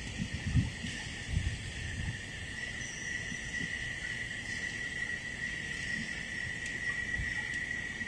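Steady, high-pitched insect drone on one even note, with a few brief low thumps in the first couple of seconds.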